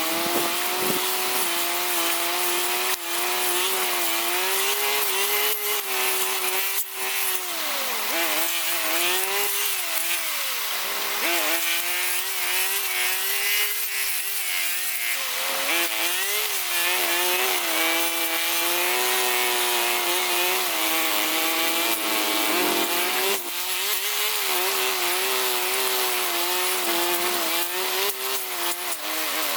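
Small petrol engine of a handheld cutting tool running at high revs throughout, its pitch sagging and recovering several times as it bites into material under load, with a few sharp knocks.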